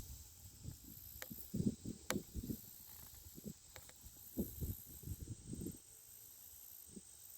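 Irregular low knocks and rustles of handling close to the microphone, with a couple of sharp clicks, fading out about six seconds in. Behind them, insects buzz faintly in repeated bouts.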